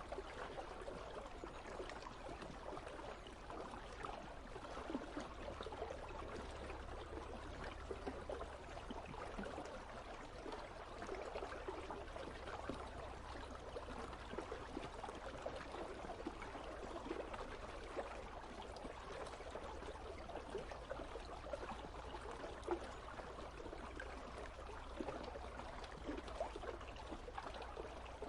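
Icy river water running steadily, a continuous babble of small splashes and gurgles, with a low rumble underneath.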